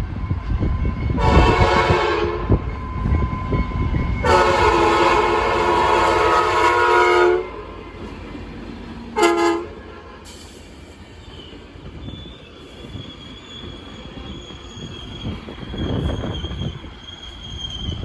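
Trinity Railway Express commuter train sounding its chime air horn: a short blast, a long blast, then a very short one, over the low rumble of the passing train. A steady high-pitched wheel or brake squeal then sets in and holds as the train slows.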